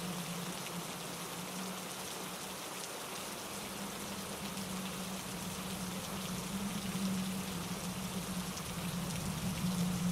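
Steady heavy rain falling on trees and rocks: an even hiss full of small drop ticks, with a low drone underneath that swells and eases.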